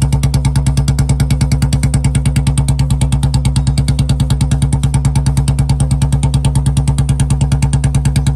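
Royal Enfield Bullet 350's single-cylinder four-stroke engine idling steadily in gear on the stand, with an even thump of about eight beats a second, turning the rear wheel and chain.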